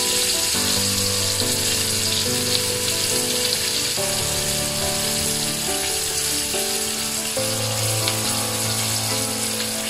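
Battered chicken pieces deep-frying in hot oil in a pan, a steady sizzle. Background music of held chords that change every second or two plays over it.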